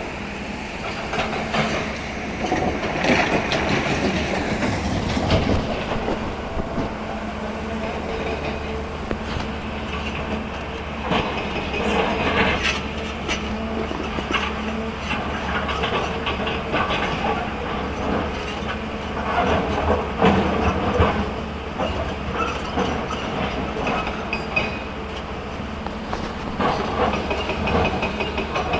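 Hyundai hydraulic excavator's diesel engine running steadily under a clatter of irregular metallic clanks and rattles as the machine works, loading stone.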